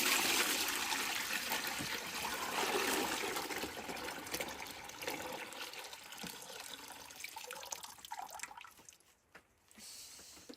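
A rush of water that starts suddenly and slowly dies away over several seconds.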